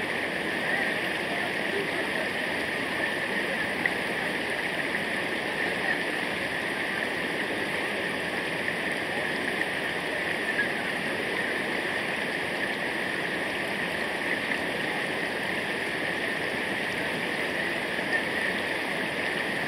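Steady rushing water of a river or waterfall, an even hiss with no letup.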